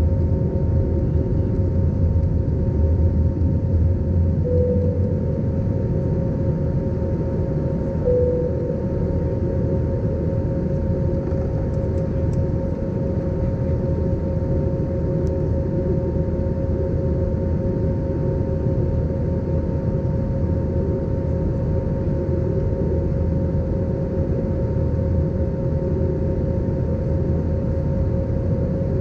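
Airbus A320 jet engines heard from inside the passenger cabin during the climb: a steady low drone with a constant whining tone over it.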